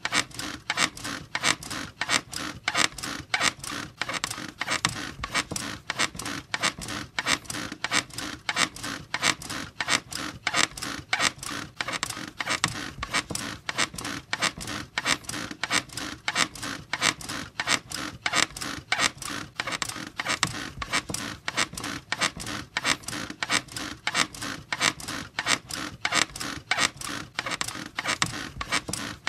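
Bed springs and frame squeaking over and over in a steady, quick rhythm.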